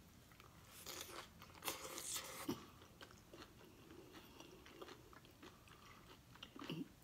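Biting into and chewing a taco close to the microphone: a run of crunching bites about a second in, then quieter chewing with faint clicks.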